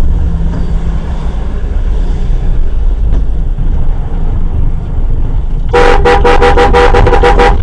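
Steady low vehicle rumble and road noise, then near the end a vehicle horn sounds in rapid, repeated short blasts, several a second.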